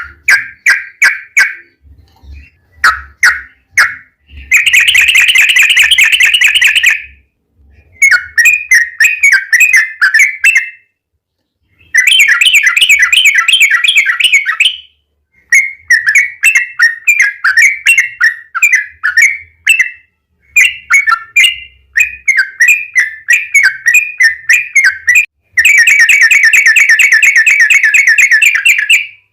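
Yellow-vented bulbul (trucukan) singing loudly. Bubbling, chattering phrases alternate with several long, fast rolling trills.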